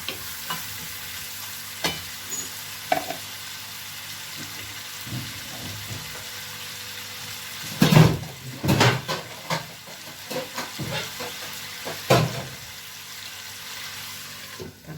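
Chicken pieces sizzling as they fry in hot oil in a pot, with a utensil knocking and scraping against the pot now and then. A spell of louder, busier stirring comes about eight seconds in.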